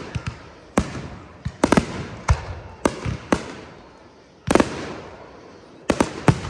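Aerial fireworks going off: a series of sharp booms, roughly one every half second. The biggest comes about four and a half seconds in and fades slowly.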